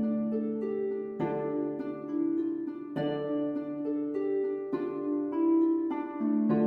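Gentle background music of plucked harp notes, with low notes held under a slow melody.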